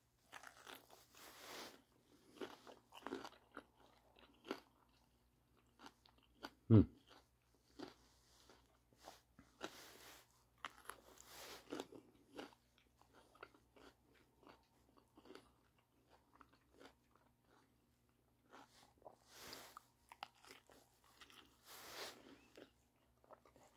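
Close-up chewing of a bite of a tortilla wrap filled with crunchy sautéed russet potatoes and jalapeños: soft, irregular crunches and mouth sounds. One louder thump comes about seven seconds in.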